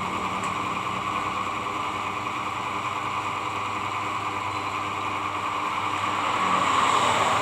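A steady mechanical running noise with a faint hum and a hiss, a little louder near the end.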